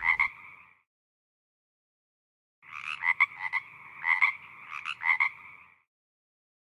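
Frog croaking: a short call right at the start, then after about two seconds a run of croaks lasting about three seconds, with several stronger pulses.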